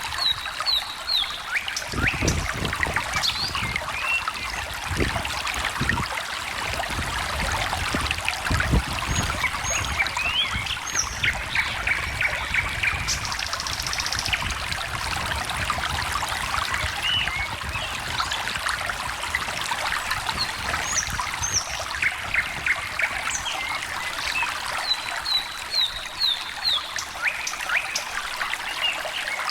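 A small stream trickling and splashing over stones, with several songbirds chirping and trilling over it in short, scattered phrases.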